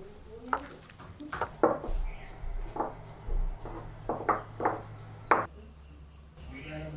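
Kitchen utensils knocking and clattering, about ten irregular sharp hits over some five seconds, then quieter.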